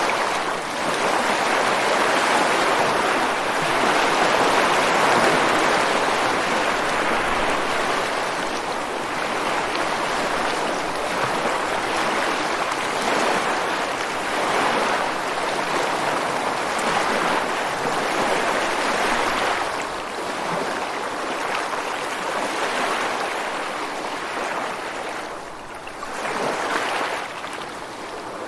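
Ocean waves breaking and washing onto a beach: a steady rush of water that swells and eases in slow surges, dipping briefly near the end before another wave comes in.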